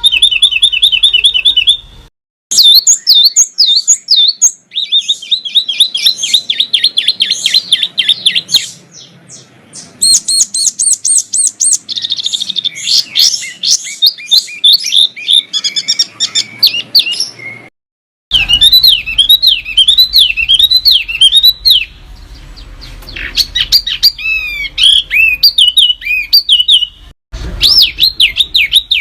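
Small songbirds singing fast, dense phrases of repeated chirps, trills and rising-and-falling whistles. The recordings are spliced together, with abrupt cuts and brief silences between them, a couple of seconds in, near 4 s, after about 18 s and near the end.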